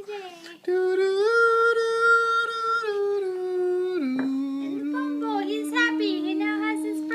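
A person humming or singing long, wordless held notes. The voice comes in about a second in, holds a high note, then steps down to a lower note near the middle and holds it.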